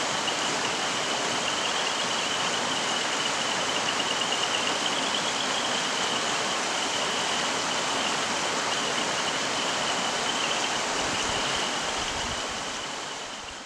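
Mountain stream flowing over rocks: a steady rush of running water, with a thin high tone running through it, fading out near the end.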